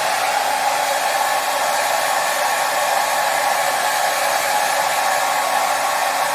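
Hair dryer running continuously at a constant setting: a steady airy rush with a faint motor hum, no change in pitch or level.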